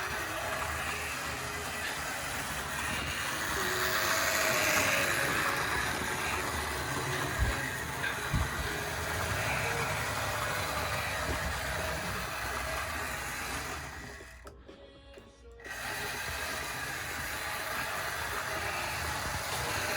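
Tri-ang RS1 OO-gauge model train with its Princess Victoria locomotive running on the track: a steady whirr and rattle from the motor and wheels. There are two short knocks about eight seconds in, and the sound drops away sharply for about a second a little past the middle.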